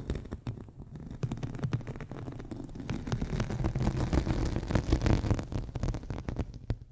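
Close-miked ASMR trigger sounds: a dense run of crackling and scratching with a low rumble, as of something rubbed or handled right against the microphone, fading out at the very end.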